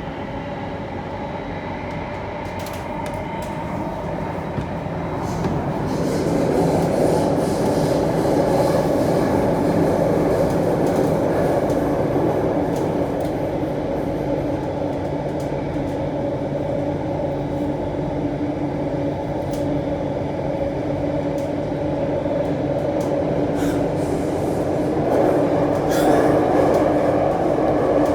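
Alstom C830 Circle Line metro train running between stations: a continuous rumble of wheels on rail with a steady hum, getting louder about six seconds in, and a few short clicks along the way.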